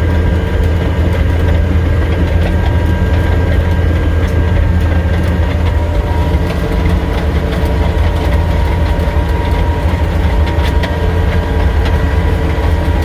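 Caterpillar D6D bulldozer's six-cylinder Cat 3306 diesel running steadily: a loud, continuous low drone with a steady whine above it.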